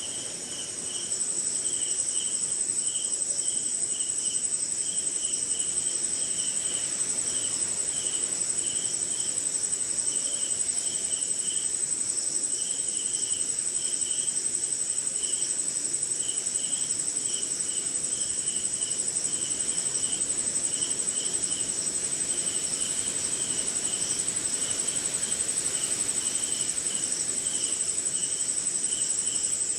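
Night chorus of crickets and other insects: a continuous high-pitched trill that steps up in loudness about a second in, with a lower chirping underneath in short pulses, about three a second, pausing now and then.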